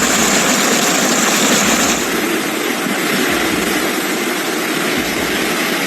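Loud, steady rushing of water: a dense, even hiss with little low rumble.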